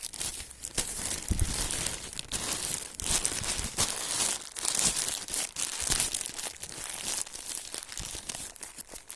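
Plastic rubbish being handled and crumpled: a continuous, uneven crinkling with sharp crackles.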